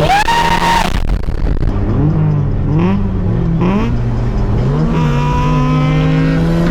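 Nissan S15's turbocharged SR20DET engine driving under load. A high whine rises and holds for about a second, then cuts off. The engine then runs on, its pitch dipping and climbing a few times as it is revved through the gears.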